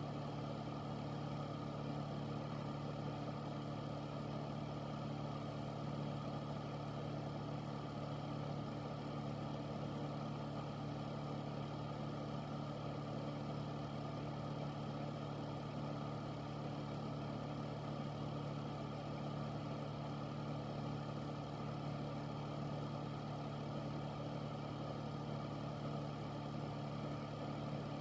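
Air filter running steadily: an even hum of the fan motor with a whoosh of moving air, unchanging throughout.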